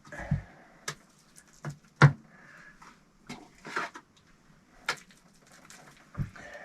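Irregular knocks, clatters and short scrapes of hand work on a brick stove under construction, with one sharp knock about two seconds in.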